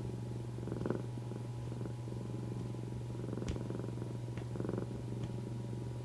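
Domestic cat purring steadily up close, the purr swelling and easing in time with its breathing about every two seconds.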